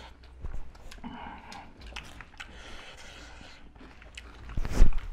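Two people chewing and eating rice and curry by hand, with many small clicks and rustles of fingers and food. A louder thump comes near the end.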